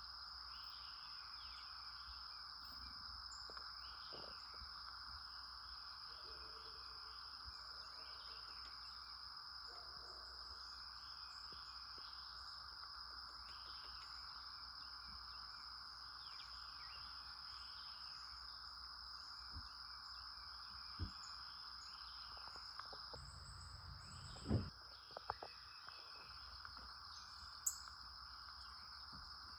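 Steady high-pitched insect chorus with scattered bird chirps throughout. A few short knocks come in the second half.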